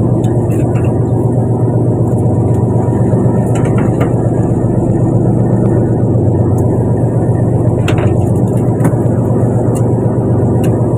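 A fishing boat's engine running steadily with a deep, even drone, with a few faint knocks on the deck.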